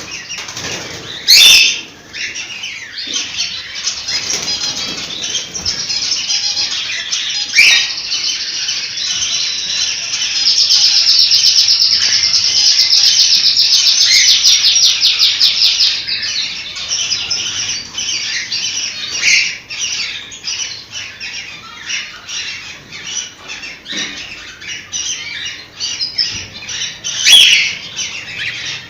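Cockatiels chirping and calling without pause, with a long, fast, buzzy trill held for several seconds in the middle. Two loud, sudden bursts stand out, one just after the start and one near the end.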